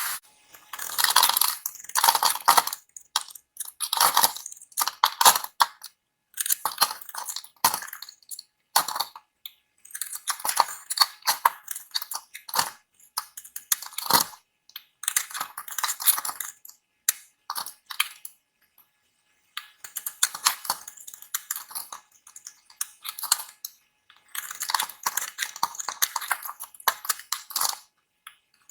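Dry soap being cut with a blade: crisp crunching and scraping strokes in runs, with short pauses between them and one longer pause a little past the middle.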